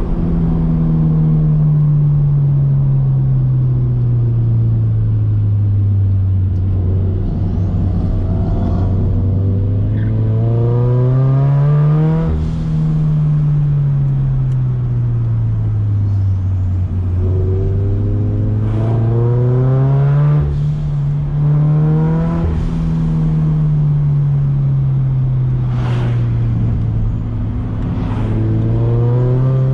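Turbocharged Scion FR-S flat-four engine pulling hard through a run of corners. The revs climb and fall again and again as it accelerates out of each bend and slows for the next.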